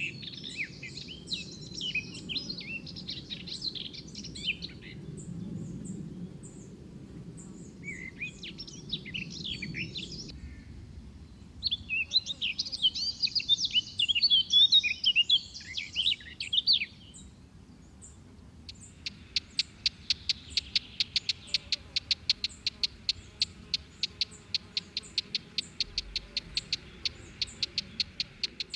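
Songbirds singing in bursts of quick, varied chirping and warbling phrases. Later a long run of sharp repeated notes, about five a second, goes on for nearly ten seconds.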